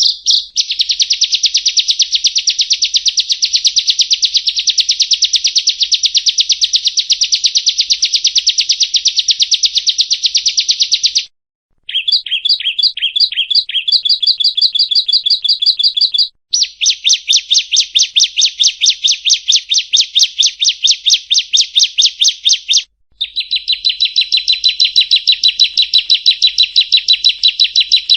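Bar-winged prinia (ciblek) singing: long, fast trills of evenly repeated high notes, about ten a second, in four runs with brief breaks between them.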